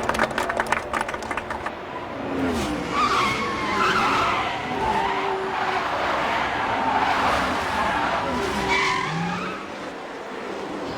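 Stock cars racing on a track, with sliding pitch from tires squealing as the cars skid. Sharp clicks come in the first couple of seconds.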